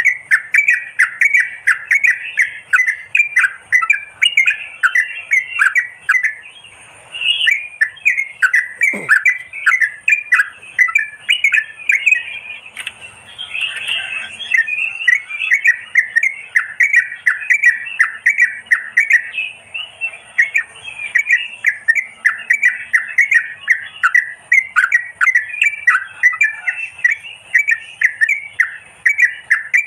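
Merbah kapur bulbuls calling in a continuous, busy chattering chorus of rapid overlapping notes, played as a lure call to attract the birds.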